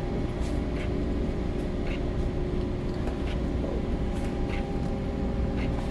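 Steady machinery drone of a bulk carrier under way, heard on its bridge: a low hum with several constant tones over it and a few faint clicks.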